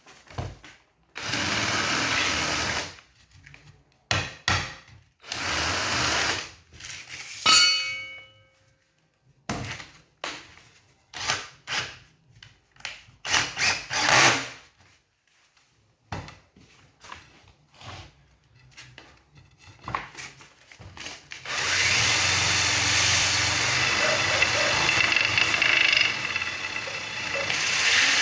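Power tool running in short bursts of one to two seconds, with knocks and handling sounds between them. Near the end a tool starts and runs steadily.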